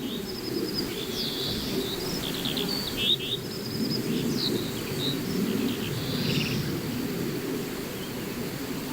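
Natural outdoor ambience: small birds chirping and trilling in short, high calls scattered throughout, over a steady low rumble of background noise.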